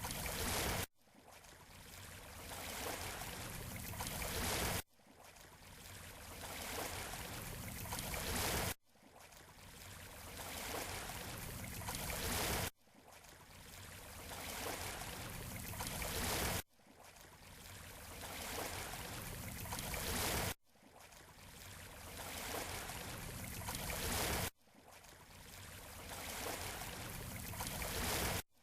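Waves washing on a beach shore, heard as a rushing noise that swells over about four seconds and then cuts off abruptly, over and over at an even pace, like a short looped recording.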